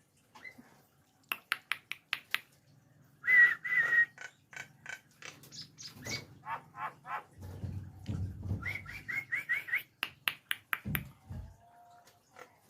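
Nias hill myna giving a run of sharp clicks, short whistled notes and quick repeated chirps, with a string of rising chirps about nine seconds in.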